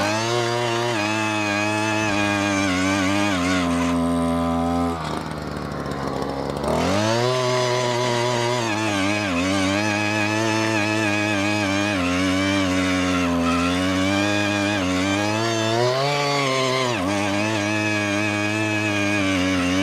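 Gas-powered post hole digger (auger) engine running under load while boring into the ground. About five seconds in, the engine speed drops for a couple of seconds and then climbs back, and it sags briefly again near the end.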